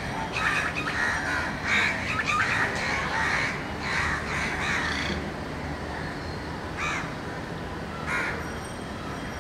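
Birds calling in the background: a quick run of short calls with bending pitch over the first five seconds, then two single calls later on, over a steady low ambient rumble.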